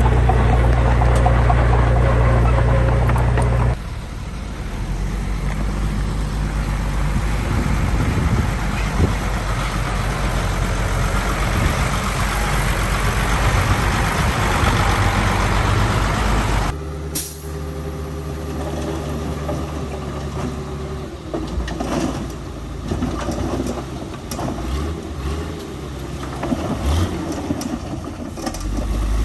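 Heavy diesel engines of trucks and machinery running, in separate clips cut together: the sound changes abruptly about four seconds in and again near seventeen seconds.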